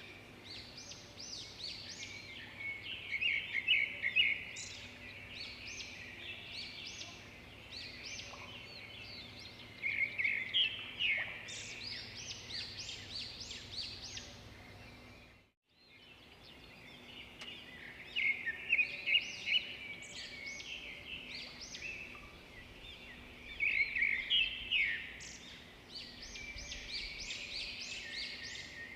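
A chorus of many songbirds chirping and singing over one another, with a faint steady background noise. The sound drops out for a moment about halfway through, then the birds carry on.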